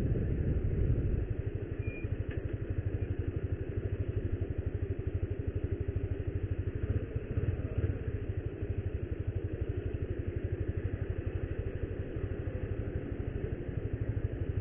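Motorcycle engine running at low revs with a steady, even pulse, heard from the rider's seat while moving slowly.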